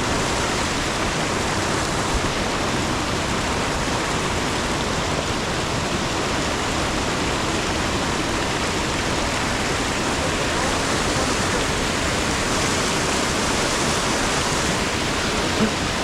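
Cascading mountain waterfall and stream rushing steadily close by, an even wash of falling water.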